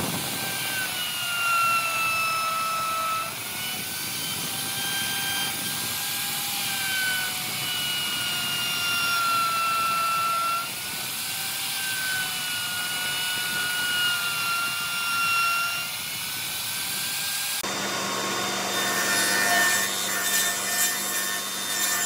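Electric power tool working wood, its motor whine wavering up and down as the load changes, over a hissing cutting or sanding noise. About three-quarters of the way through it cuts abruptly to another machine with a steady low hum and scattered clicks.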